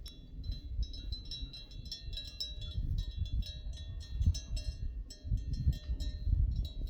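Small metal livestock bells on a flock of goats or sheep, clinking and jingling over and over as the animals move, with a low rumble underneath.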